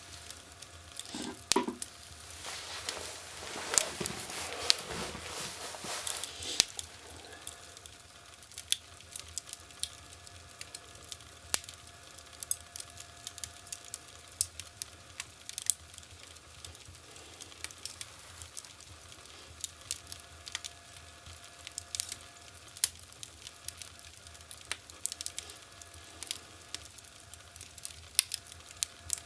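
Wood fire crackling in a fireplace: irregular sharp pops and snaps over a soft hiss, busier and louder for the first six seconds or so, then sparser pops.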